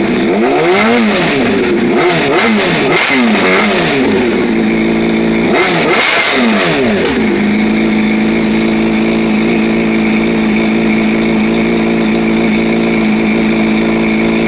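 Honda CBR600RR inline-four through a Two Brothers aftermarket exhaust, blipped several times with quick revs up and back down, then settling to a steady idle after about seven seconds.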